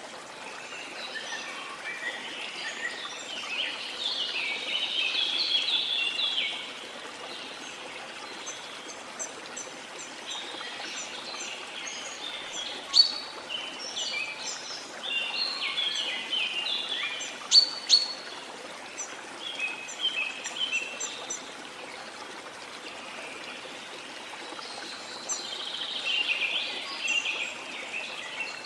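Small songbirds chirping and twittering over a steady wash of sea water. The chirping comes in dense bursts during the first few seconds and again near the end, with sharp single chirps in between.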